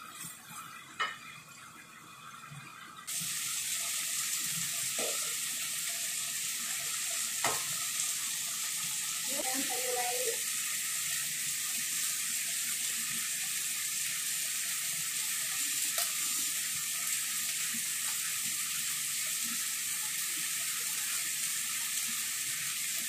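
Chicken and vegetables frying in a pot over a gas flame: an even sizzling hiss that starts suddenly about three seconds in and holds steady, with a few sharp knocks of the wooden spatula against the pot.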